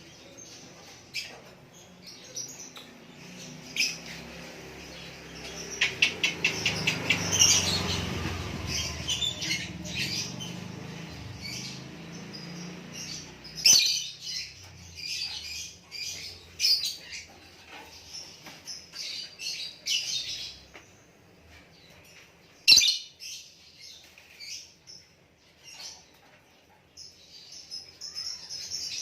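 Songbird, the lakbet of the title, singing in short high chirps and calls, with a fast run of repeated notes about seven seconds in. A single sharp click sounds about 23 seconds in.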